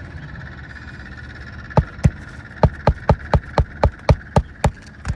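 A hammer driving a roofing nail into an asphalt shingle: about a dozen sharp strikes in quick, even succession, roughly four a second, starting a couple of seconds in.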